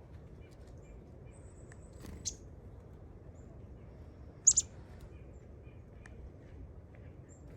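Small songbirds giving a few short, high chirps: one about two seconds in and a loud, close pair about four and a half seconds in, with fainter peeps between. A low steady rumble runs underneath.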